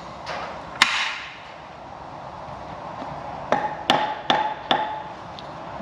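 Hammer tapping on metal in an engine block to free a stuck valve: one tap about a second in, then four quick ringing taps a little under half a second apart.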